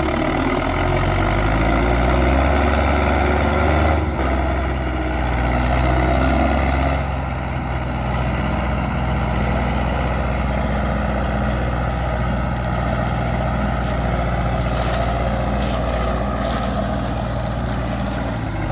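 Tractor diesel engine running steadily under load, its note shifting a few times.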